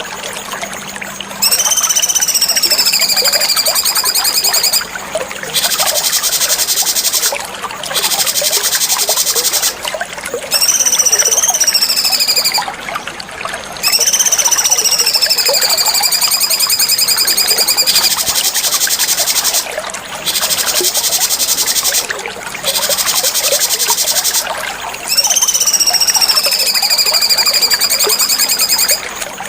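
Cucak cungkok songbird singing in repeated phrases: high whistled notes that rise and then slide slowly down, alternating with long, fast, buzzy trills, with short pauses between phrases.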